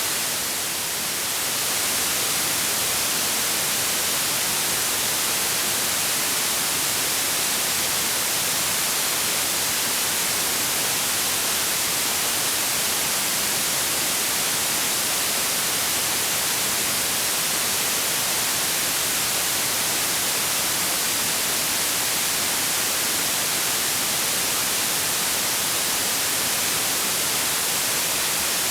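Steady white noise: an even hiss with no tones or rhythm, brightest in the high frequencies, dipping slightly for the first second or two.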